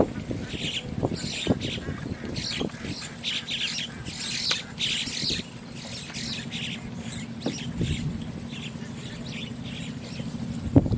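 Birds chirping and squawking over and over, with a few short low knocks.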